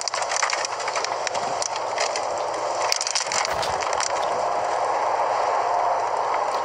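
Storm wind and rain making a steady rushing noise, with scattered crackling clicks in the first few seconds and a slow rise in loudness.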